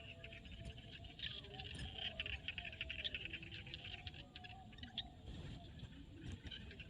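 Chorus of frogs calling: a dense run of rapid clicking calls with a few short, lower croaks beneath.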